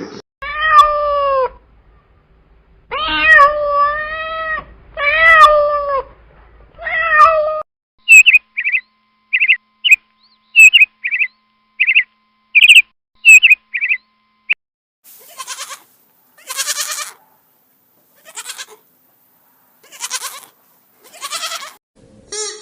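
A cat meowing four times in drawn-out, bending calls. This is followed by a quick run of about a dozen short, high chirps, then several short hissy bursts.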